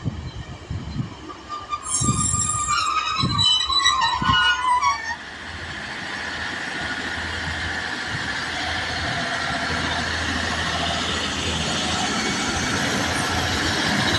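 A train at the station, with a burst of high squealing for about three seconds near the start, then the rolling noise of a train building steadily louder as it approaches.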